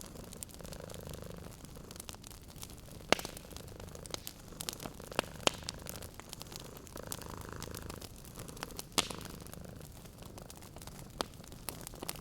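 Domestic cat purring, the low buzz swelling and fading with each breath, under a wood fire crackling with sharp scattered pops; the loudest pops come about three seconds in, around five seconds and near nine seconds.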